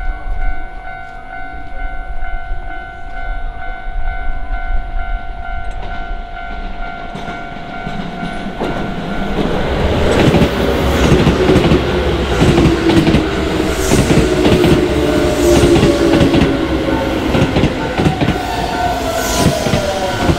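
Railway crossing warning bell ringing steadily. About nine seconds in, a Keisei Main Line electric train arrives, its wheels clacking over the rail joints and its motor whine falling slowly in pitch.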